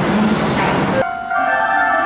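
Running noise of a Keihan electric train at a station platform for about a second, then a sudden cut to background music of clear, piano-like notes.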